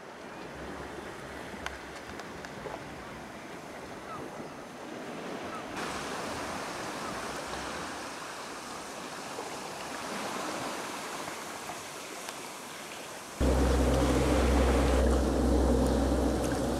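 Sea water washing and lapping in a steady wash of noise. About thirteen seconds in it turns suddenly much louder, with a heavy low rumble.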